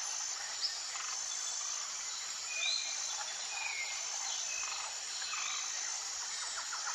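Outdoor nature ambience: a steady high-pitched insect hum with a scattering of short bird chirps and whistles.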